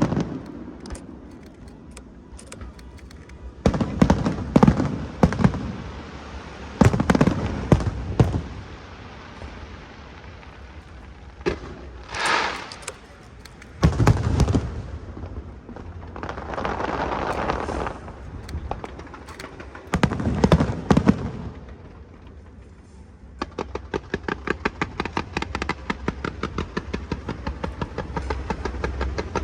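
Aerial fireworks going off: a string of separate booms, some followed by crackling. Near the end comes a fast, even run of ticks, about four a second.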